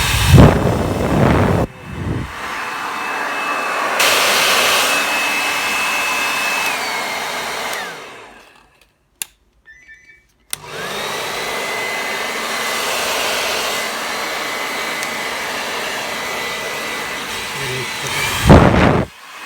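Rowenta hair dryer running with a steady rush of air and a thin whine. It is switched off about eight seconds in and winds down, a click follows, and about two seconds later it is switched back on and runs again. There are loud gusts of air near the start and the end.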